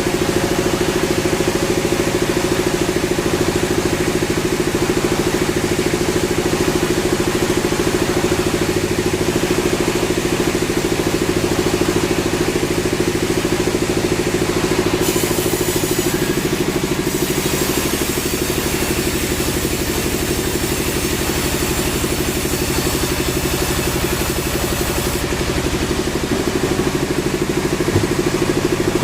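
Sawmill machinery running with a steady, loud mechanical drone. About halfway through, a brighter hiss joins it for about ten seconds, then drops away.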